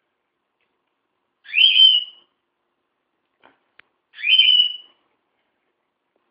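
Pet bird giving a loud whistled call twice, each under a second long and rising in pitch, repeated about every three seconds.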